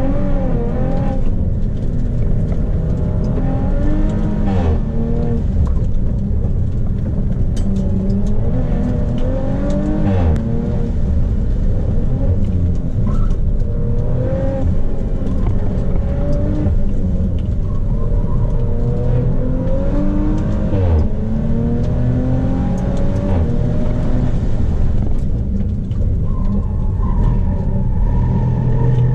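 Audi B9 RS4's twin-turbo V6 under hard acceleration, heard from inside the cabin: the engine note climbs in pitch and drops back at each gear change, again and again through the run.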